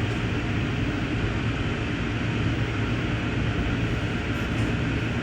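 Steady rumble and hiss of an Amtrak passenger car rolling along the track, heard from inside the car.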